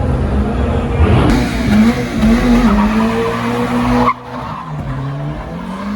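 Car engine held at high revs with tyres squealing and skidding. The sound drops sharply about four seconds in, leaving a quieter engine note.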